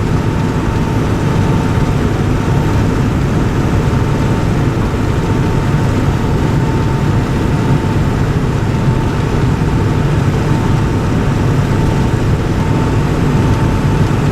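Steady drone of a car driving at highway speed, with engine and road noise heard from inside the vehicle and a faint steady whine running through it.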